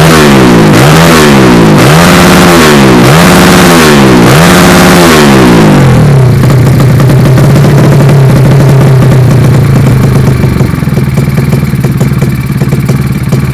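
Yamaha Vega four-stroke single-cylinder engine, bored up to 185 cc, with a loud exhaust. It is revved in about four quick blips about a second apart, then settles to a steady idle that turns lumpier near the end.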